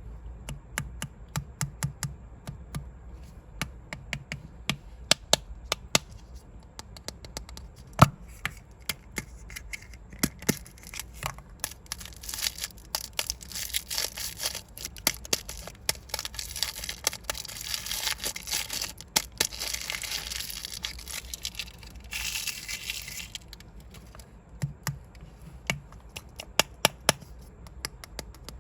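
Plastic balls and capsules tapped and clicked, a string of sharp clicks throughout, and through the middle stretch a long spell of crinkling and rustling plastic wrapper.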